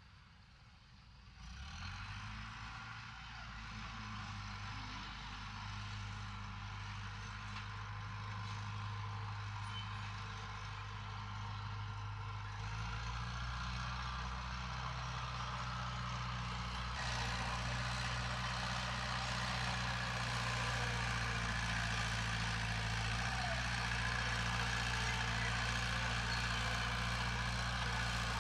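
Heavy diesel engine of earth-moving machinery running steadily. It comes in about a second and a half in and grows gradually louder, its note shifting a couple of times along the way.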